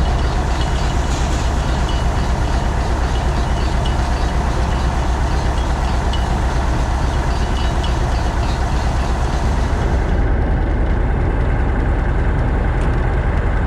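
Don-1500B combine harvester running steadily, a loud continuous machine drone with a deep low rumble.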